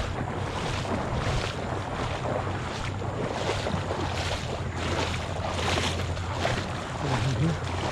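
Footsteps wading through shallow salt water while a kayak is walked along, a splashing slosh with each stride about every 0.7 s, with wind buffeting the microphone.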